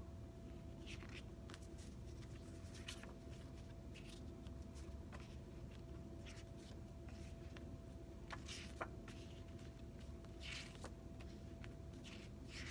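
Quiet room tone with a steady faint hum, broken by scattered soft rustles and scrapes.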